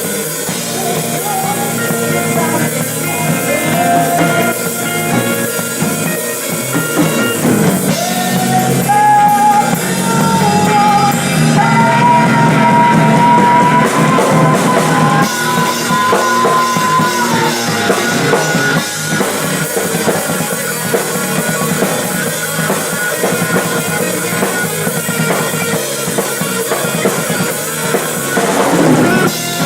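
Rock band playing a song: drum kit driving under guitars, with singing. Between about 8 and 18 seconds in, a long held melody line steps gradually higher.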